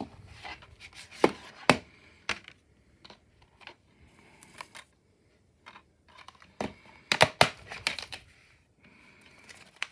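Plastic DVD case being handled and opened: scattered sharp clicks and knocks, with a cluster of them about two-thirds of the way through.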